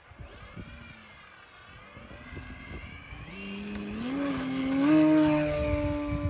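Radio-controlled model airplane's motor, faint at first, then rising in pitch in a few steps and getting louder, loudest about five seconds in before holding a steady note. Wind rumbles on the microphone underneath.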